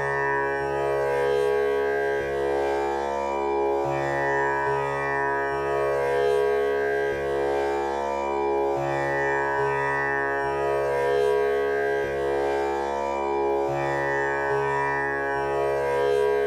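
Tanpura drone tuned to C#, its strings plucked in a slow repeating cycle that comes round about every five seconds. The rich buzzing overtones ring on without a break.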